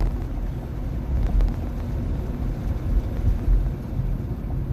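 Steady low road and tyre rumble inside the cabin of a moving 2021 Nissan Leaf electric car, with no engine sound.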